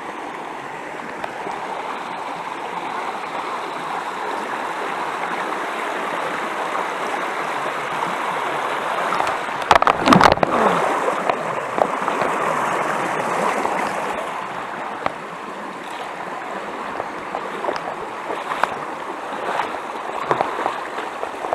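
Mountain stream rushing over rocks, a steady water noise. About ten seconds in there is a short cluster of sharp knocks, followed by a brief falling tone.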